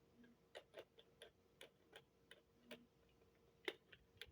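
Faint, irregular light clicks and taps of small plastic model railway cars being handled and set on the track, one louder click near the end.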